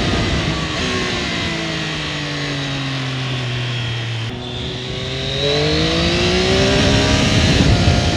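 Triumph Daytona 765 Moto2's three-cylinder engine heard from the moving bike, through its loud stock exhaust: the revs fall steadily as the bike slows, then about halfway through they climb again as it accelerates and hold high near the end.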